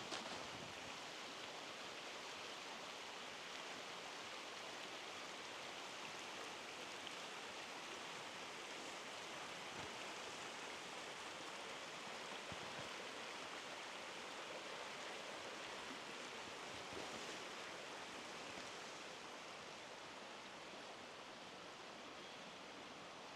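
Steady rush of running water, growing a little quieter near the end.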